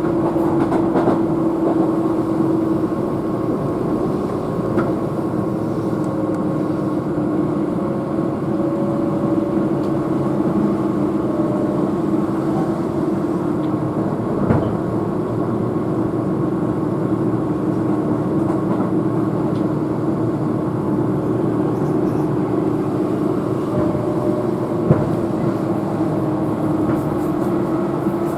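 Keihan electric train running at speed, heard from inside the car: a steady rumble of wheels on rail under a humming motor tone that drifts slightly in pitch. Two short sharp knocks come about halfway through and again near the end.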